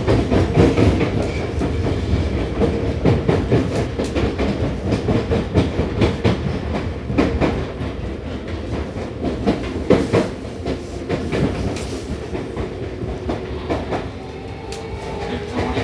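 Running sound inside a Seibu 6000 series motor car with a Toshiba IGBT inverter: wheels clicking over rail joints under a steady motor and inverter hum. Near the end the rumble eases and a rising motor whine comes in.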